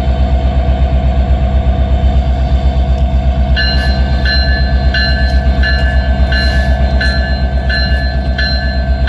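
Norfolk Southern diesel locomotive running close by, its engine a heavy, evenly pulsing rumble. About three and a half seconds in its bell starts ringing, about twice a second, the signal given as a locomotive gets ready to move.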